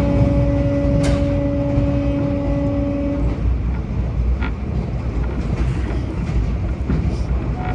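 Train horn sounding one long steady two-note blast that cuts off about three seconds in, over the continuous low rumble of a train running on the rails; the horn starts again right at the end.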